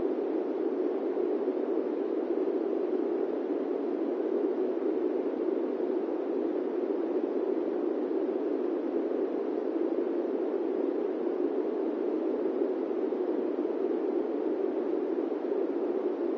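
Airplane cabin noise in flight: a steady, even rushing hiss, strongest in the low-middle range, without engine tones or any change.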